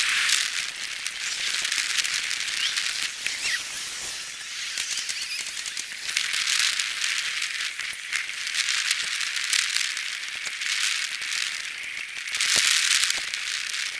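A bicycle rolling over the road: a steady hiss with many small rattles and clicks that swell and fade every second or two as it jolts over the surface.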